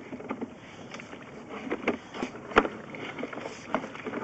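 Irregular knocks, clicks and scrapes from a sewer inspection camera and its push cable being fed along a pipe, with one sharper knock about two and a half seconds in.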